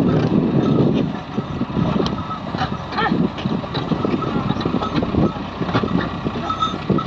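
Diesel engine of a JCB 3DX backhoe loader working while loading soil.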